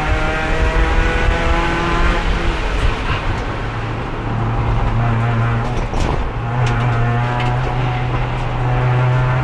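Race car engine heard onboard, running at steady revs in fourth gear, the only gear used because the transmission is failing. The pitch eases down a few seconds in, breaks briefly with a few clicks a little past the middle, then holds steady again.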